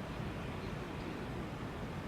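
Steady outdoor background noise, heaviest in a low rumble, with no distinct events.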